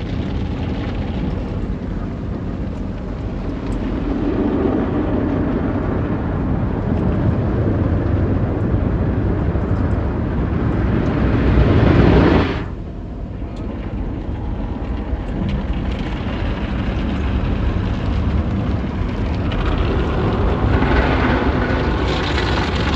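Automatic car wash equipment heard from inside the car: a loud, steady rush of water spray and machinery on the bodywork. It swells to a peak about twelve seconds in, drops off suddenly, then builds again near the end.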